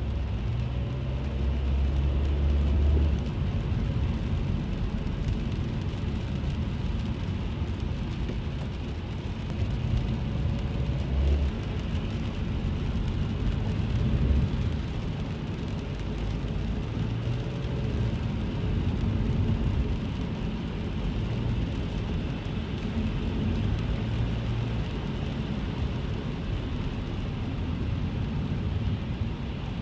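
The inside of a car driving in the rain: the engine and tyres on the wet road make a steady low rumble, with light rain on the car mixed in.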